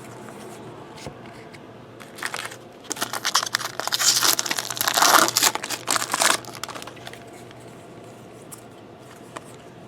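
Foil wrapper of a Bowman Draft jumbo baseball card pack crinkling as it is opened, in a burst that starts about two seconds in and dies away after about six and a half seconds.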